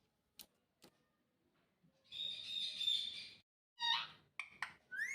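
Pet parrot calling: a harsh squawk lasting about a second, then a few short sweeping calls and a wavering whistle near the end. Two faint clicks come early on.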